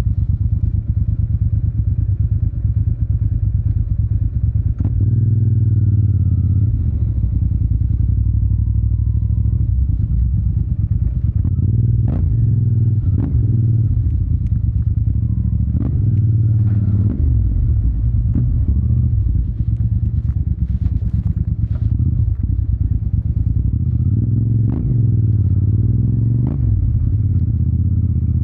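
Yamaha TDM 900's parallel-twin engine through an Akrapovic exhaust, running under way with the revs rising and falling several times. Scattered sharp clicks sound over it.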